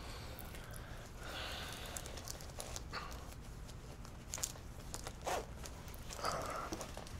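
Clothing rustling in several short bursts, with a few faint clicks: a man changing clothes and pulling on a pair of pajama pants.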